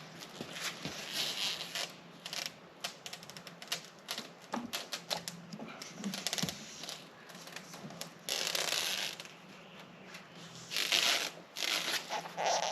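Clicks, taps and rustling from hand work fitting thin ceiling panels, with a quick run of clicks about three seconds in. Two longer hissing scrapes come about eight and eleven seconds in, over a faint steady hum.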